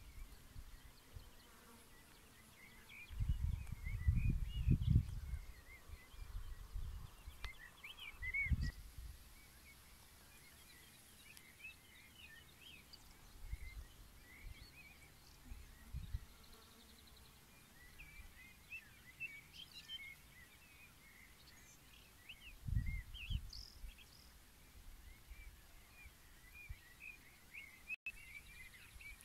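Several small birds chirping and singing, short quick calls all through, with a few low rumbles of wind on the microphone near the start, about eight seconds in and again near the end.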